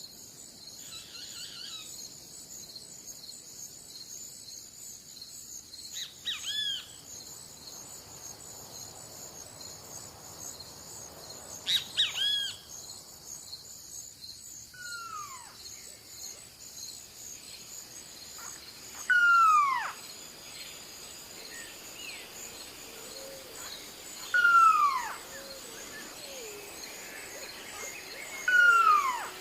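A bird calling with loud descending whistles, each about a second long and repeated every four to five seconds, after a couple of shorter hooked calls. Underneath is a steady, high, pulsing chorus of insects.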